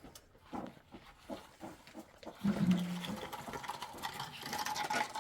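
A short, low animal call about halfway through, held for about half a second, amid scattered light knocks.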